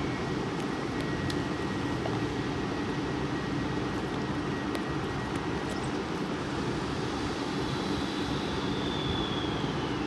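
Train running past on the line, a steady rumble of wheels on rail. A faint high whine comes in a few seconds before the end and drops slightly in pitch.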